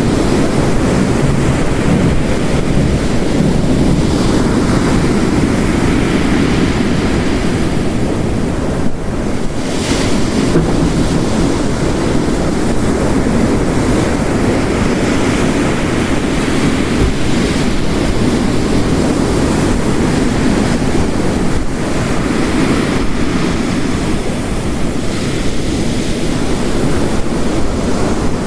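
Mixed storm ambience: ocean waves crashing on a rocky coast under heavy, steady rain, a dense roar of water with slow surging swells and no distinct thunderclap.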